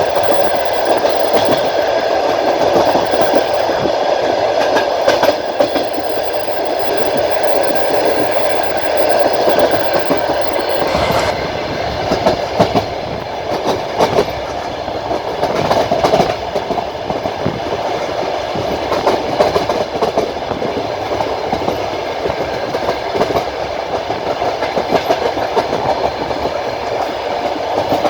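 Wheels of a moving passenger train clattering steadily on the rails, heard from aboard the carriage, with a run of sharper clacks over rail joints about halfway through.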